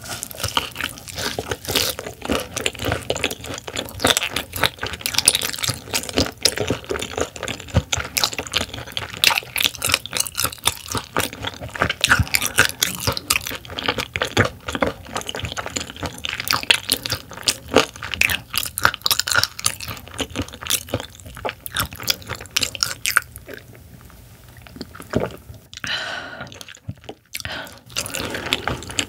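Close-miked chewing of raw silver pomfret sashimi: a dense run of wet crunches and mouth clicks, easing off briefly near the end.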